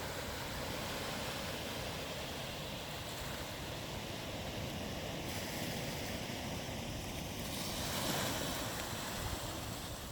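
Ocean surf washing onto a sandy beach: a steady rush of breaking waves that swells louder about eight seconds in.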